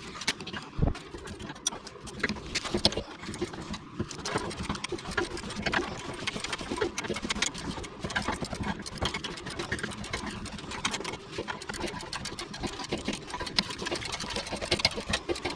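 FiberFix resin repair wrap being worked around an exhaust pipe: dense, irregular crackling and clicking.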